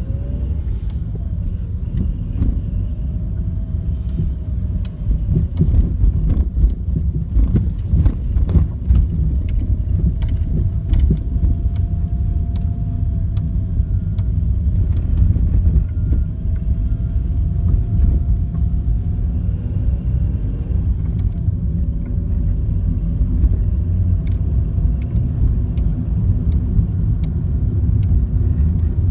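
Road-works machinery engine running with a steady low rumble, a faint whine that slowly rises and falls in pitch, and scattered knocks and clicks.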